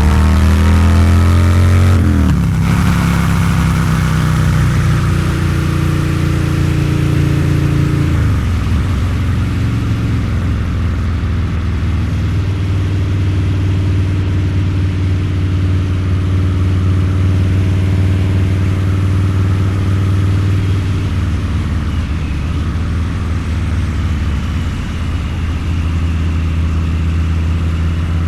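Harley-Davidson Low Rider's 129 cubic inch V-twin running through a Two Brothers Racing exhaust. It accelerates with a rising pitch for about two seconds, then the pitch drops suddenly. The engine then runs steadily at cruise, with a small step down in pitch about eight seconds in.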